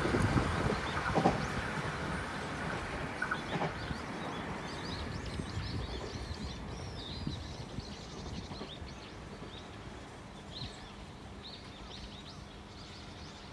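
Tobu 60000 series electric train running away down the track, its rumble and a few wheel knocks fading over the first few seconds. Small birds then chirp repeatedly over faint outdoor background noise.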